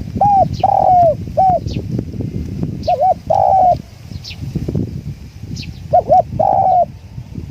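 Spotted dove cooing in three phrases of rolling coos, about three seconds apart. Wind buffets the microphone throughout, and a small bird gives thin, high chirps in the background.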